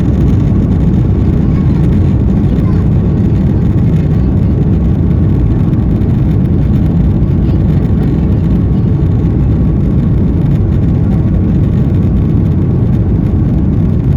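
Cabin noise inside an Airbus A330-200 airliner during departure: the jet engines and the airflow make a steady, loud low rumble, with a faint steady whine above it.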